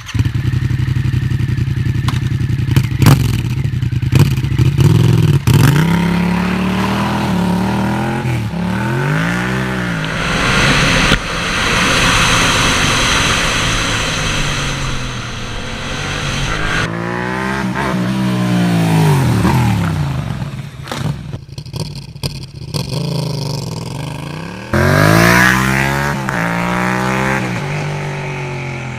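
Yamaha MT-07's parallel-twin engine through an aftermarket Arrow exhaust, coming to life at the start and then revved and accelerated repeatedly, its pitch rising and falling in several long sweeps.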